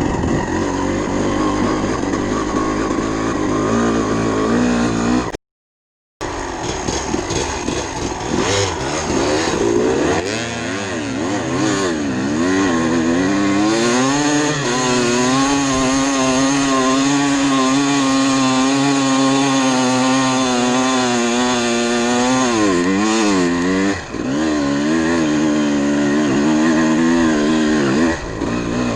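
Dirt bike engine running under riding load, its pitch rising and falling with the throttle and holding a fairly steady note through the middle stretch. The sound cuts out completely for under a second near the start.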